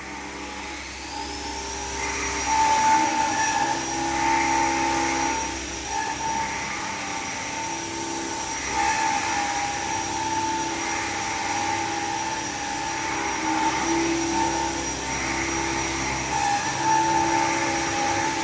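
CNC machine running: a spindle whine rises to a steady high pitch in the first second or two, over steady machine hum, with recurring bursts of hiss about every two seconds.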